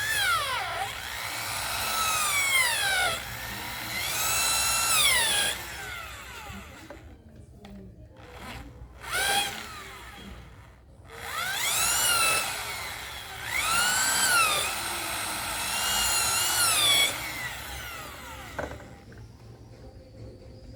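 Electric drill motor run in repeated short bursts, its whine rising in pitch as it spins up and falling as the trigger is eased off, about seven times.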